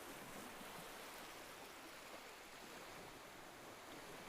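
Faint ocean waves washing on a shore: a soft, steady rush with no distinct breaks.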